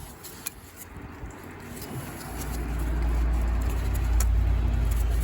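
The 1963 Case 310F bulldozer's diesel engine comes in about two seconds in and then turns over steadily with a low drone. It is being turned over with a fuel line cracked open to check whether fuel reaches a cylinder suspected of not firing.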